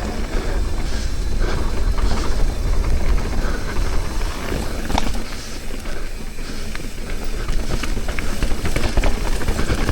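Mountain bike descending a dirt trail at speed: wind buffeting the microphone in a heavy steady rumble, tyres rolling over the ground, and the bike rattling and clicking over rough terrain.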